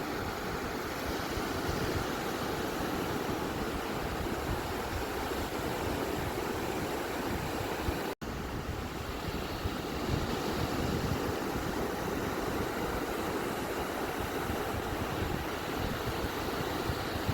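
Ocean surf washing on a beach, a steady rushing noise that cuts out for an instant about eight seconds in.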